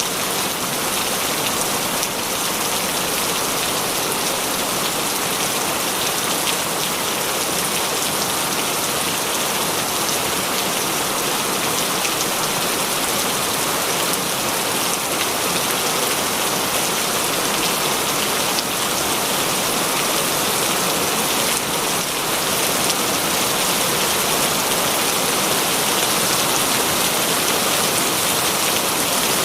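Heavy rain falling steadily, a dense, even hiss of drops on surfaces with no breaks or distinct impacts.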